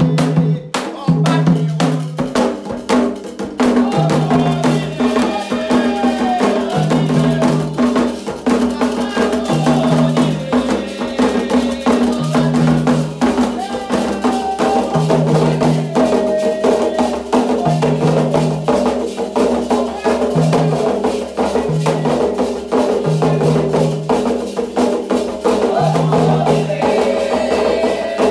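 Candomblé toque: hand drums beaten in a fast, dense rhythm with a metal bell keeping time, and voices singing over them. A deep note recurs every two to three seconds.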